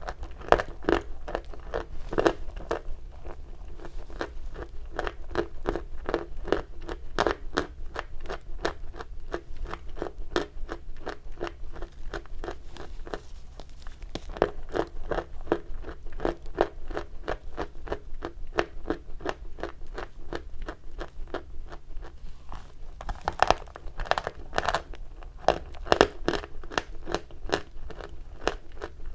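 Chalk being bitten and chewed close to the microphone: a fast, continuous run of small crisp crunches, with a few louder bites about three-quarters of the way through.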